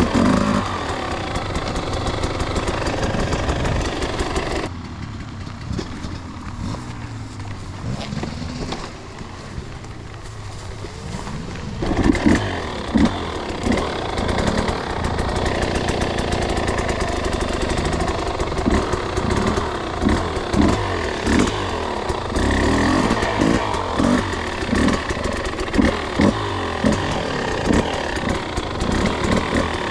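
Two-stroke enduro dirt bike engine running under way. It drops to a quieter, lower note for several seconds, then picks up again about twelve seconds in with repeated short bursts of throttle.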